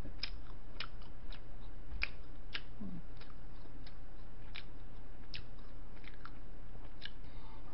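A person chewing bread close to a microphone: irregular small wet mouth clicks, one or two a second, over a steady low hum.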